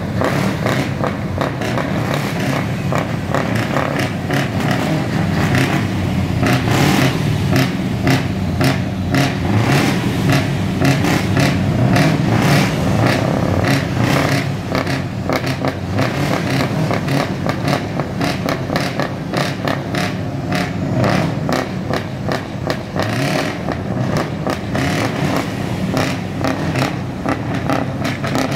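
Scania V8 diesel truck engine running loud through an open exhaust and being revved, a deep continuous rumble with rapid pulsing crackle.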